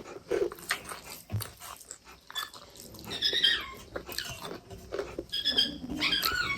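A dog whining in high-pitched whimpers, in two spells about halfway through and near the end, amid the clicks of people chewing.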